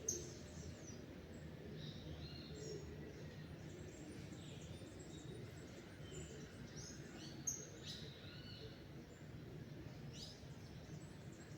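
Several small birds chirping and whistling in short scattered calls over a steady low background rumble. Two sharp clicks stand out as the loudest moments, one right at the start and one about two-thirds of the way through.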